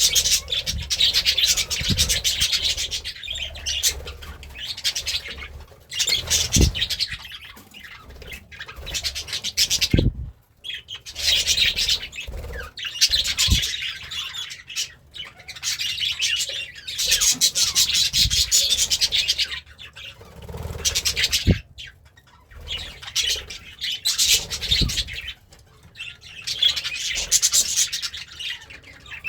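Budgerigar warbling and chattering in bouts of a few seconds, a fast, scratchy run of chirps with short pauses between, with a few brief low thumps mixed in.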